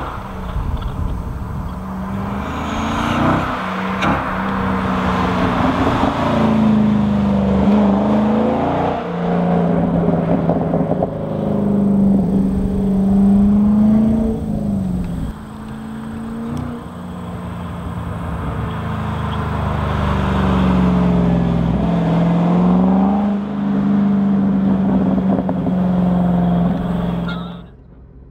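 Borla exhaust on a 2005 Chevrolet Corvette C6's 6.0-litre V8 under way, the engine note climbing and falling again and again every few seconds as the car is driven hard through the revs. The sound drops away abruptly near the end.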